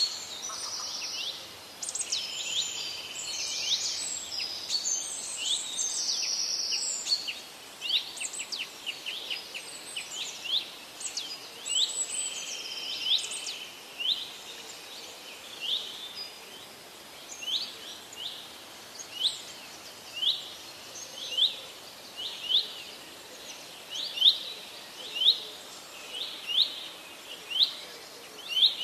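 Songbirds singing: several birds chirp and trill over one another for the first half, then one bird repeats a short sharp call about once a second.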